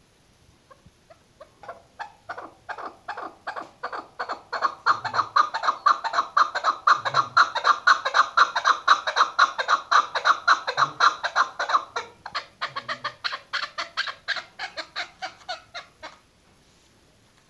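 Chukar partridge calling: a long series of clucking "chuck" notes that begins slowly, speeds up to about five a second and grows louder, then keeps on more quietly and stops near the end.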